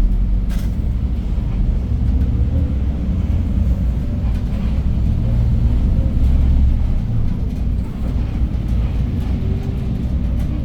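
Hyundai New Super Aerocity city bus with its C6AF CNG engine and five-speed manual gearbox pulling away from a stop and driving on, heard from inside the cabin at the front: a steady low engine rumble. A short sharp click sounds about half a second in.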